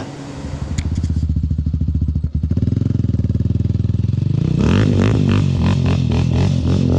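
The 2004 Chevy Tahoe's V8 engine running with a rapid, even pulse, freshly fitted with new spark plugs and wires; it gets louder and fuller about two-thirds of the way in.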